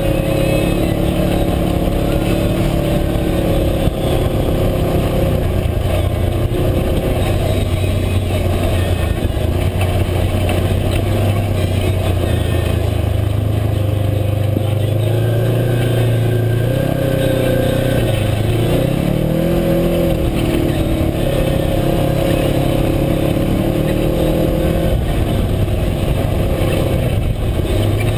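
Side-by-side UTV engine running under load while driving a trail, its pitch shifting with the throttle and rising sharply about two-thirds of the way through.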